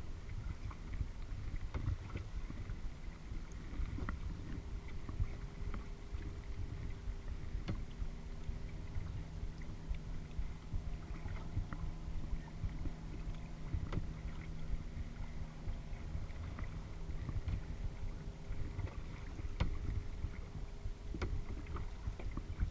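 Kayak paddling on a lake: water splashing off the paddle, with scattered small clicks and knocks over a steady low rumble of water and wind on the microphone. A faint steady drone joins for several seconds in the middle.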